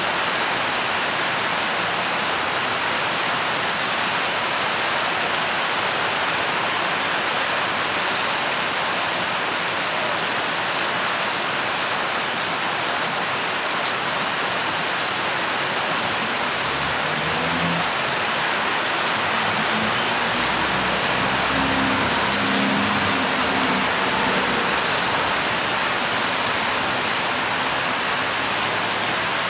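Heavy rain pouring onto water standing on a flooded road, a dense, even hiss of drops splashing. Past the middle, a low hum rises under the rain for several seconds.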